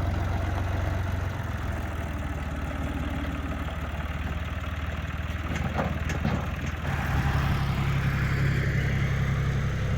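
Engine idling steadily, then its speed and level step up about seven seconds in and hold there.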